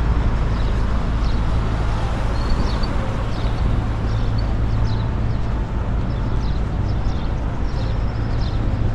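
Street ambience: a steady low rumble of road traffic, with frequent short high chirps of small birds over it.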